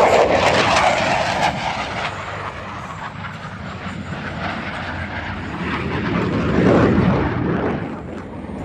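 Aircraft engine noise at an air show, a steady rushing roar that is loud at first, fades, then swells again about seven seconds in and drops off near the end, as aircraft fly past.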